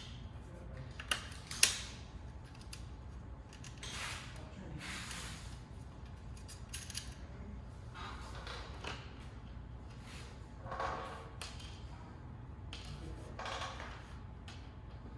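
Hand work with tools and parts in a workshop: a sharp click or knock a little after a second in, the loudest sound, then intermittent short scraping and rustling noises over a low steady hum.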